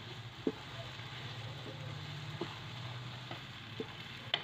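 Green peas and tomato-onion masala sizzling in a nonstick wok as they are stirred and fried with a wooden spatula, with a few light knocks of the spatula against the pan.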